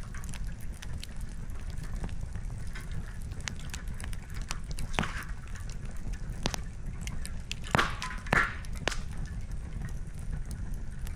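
Campfire crackling: burning firewood gives off scattered sharp pops and clicks over a steady low rumble, with a few louder snaps past the middle.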